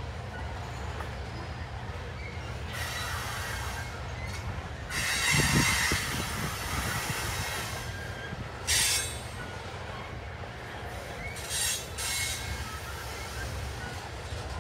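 Freight train of tank cars rolling past with a steady low rumble, broken by short bursts of wheel squeal, the loudest about five seconds in and shorter ones near nine and twelve seconds.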